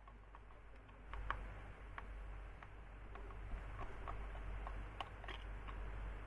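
Scattered light clicks and taps, irregularly spaced, over a faint low hum.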